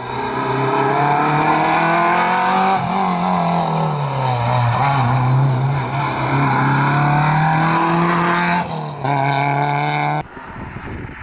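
Rally car engine under hard acceleration, its revs climbing then falling away about three seconds in, then climbing again through a gear change before the sound cuts off suddenly near the end.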